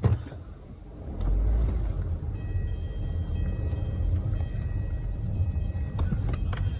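Car pulling away and driving, with engine and road rumble heard from inside the cabin; the rumble starts about a second in and holds steady. Faint steady high tones sit over it, and a few clicks come near the end.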